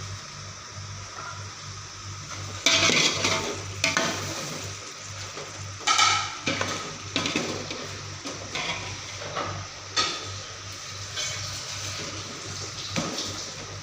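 Food frying in a pan, sizzling steadily, while a metal spoon stirs and scrapes it against the pan, with loud scrapes about three, six and ten seconds in.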